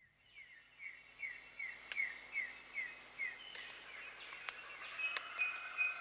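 Forest birdsong ambience: a bird repeats a short descending chirp about two or three times a second, then other birds give longer, steadier calls over a soft background hiss.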